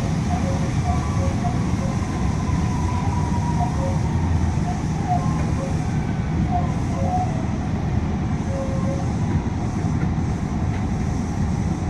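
Steady running noise inside a Yui Rail monorail car, with air-conditioning noise, under which a faint tone slowly falls in pitch.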